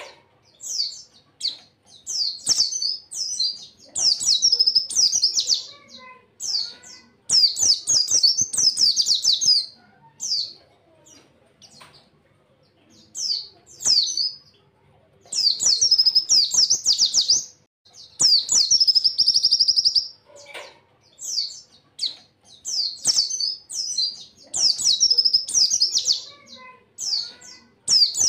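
Pleci (white-eye) singing: rapid, high-pitched twittering phrases of one to two seconds each, repeated with short pauses between them.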